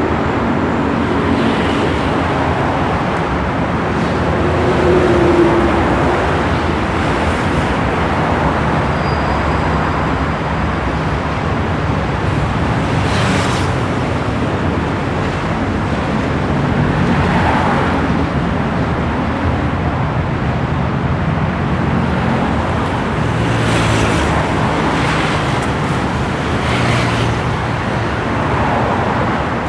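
Steady road traffic noise, with a few vehicles swelling louder as they pass.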